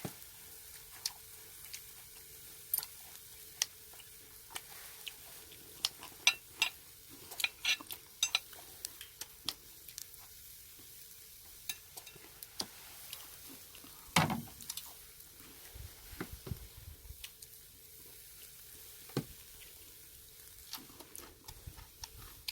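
Pork neck sizzling over a charcoal brazier: a faint steady hiss with scattered sharp clicks and pops, thickest about six to eight seconds in, and one louder knock about fourteen seconds in.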